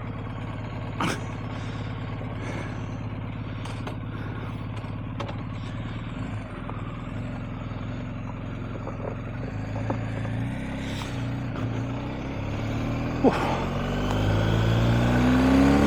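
BMW R1250GS's boxer-twin engine idling steadily, then rising in revs as the bike pulls away near the end. A couple of sharp clicks sound over the idle.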